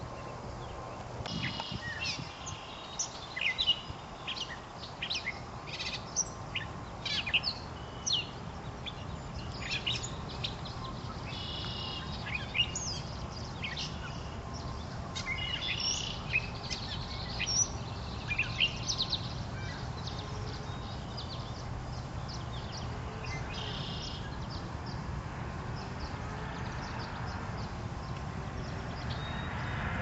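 Wild birds in the trees chirping and calling: many short, sharp, high notes from several birds, thick for the first two-thirds and thinning out after that. A steady low rumble of background noise runs underneath.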